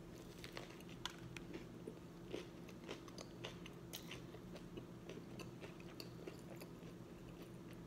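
Close, faint chewing of a mouthful of beef-and-lamb gyro in pita, with scattered small clicks and crunches; the meat is hard and dry.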